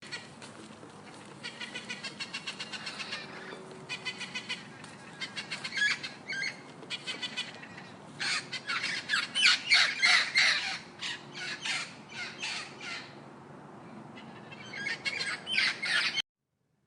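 Birds squawking in rapid runs of short, harsh calls, coming in several bouts and loudest through the middle, then cutting off abruptly near the end.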